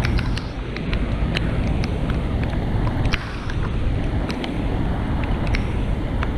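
Wind buffeting the microphone in a steady low rumble, with scattered sharp ticks at irregular intervals.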